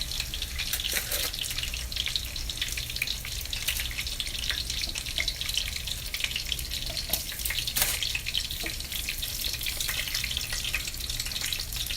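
Breaded chicken cutlets frying in hot oil in a pan: a steady sizzle of dense crackling, with a few sharper pops about seven to eight seconds in.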